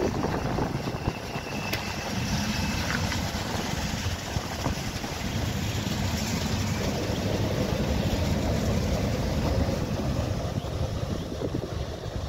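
Tyne and Wear Metro train moving along the platform and pulling away, a steady rumble with wind noise on the microphone.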